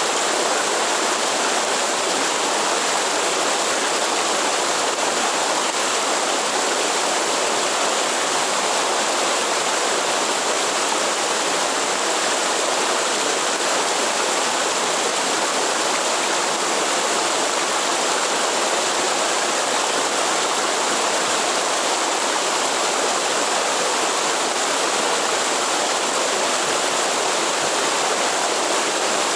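Waterfall or fast forest stream: steady rushing water with no breaks.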